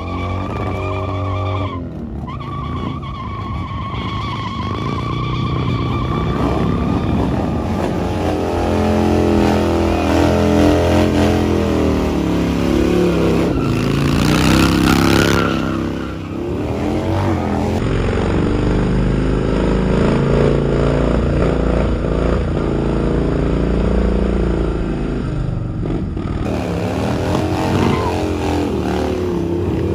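Motorcycle engines running and revving hard, the pitch climbing and falling over and over, with a short hissing burst about halfway through.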